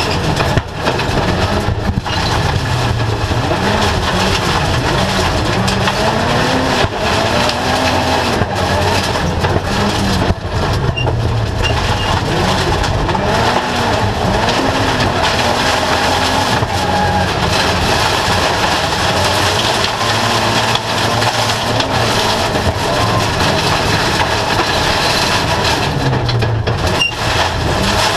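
Autocross race car engine heard from inside the cockpit, revving up and dropping repeatedly as the driver shifts through the gears on a dirt track. Frequent short knocks and rattles come from the stripped, roll-caged car.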